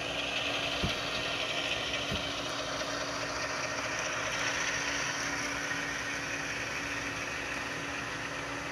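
Sound-equipped Walthers Mainline GE ES44 model locomotive running, its onboard speaker playing a steady diesel engine sound. Two light clicks come in the first couple of seconds.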